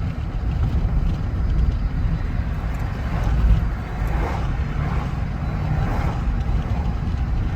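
Truck driving on the road: a steady low rumble of engine and tyre noise.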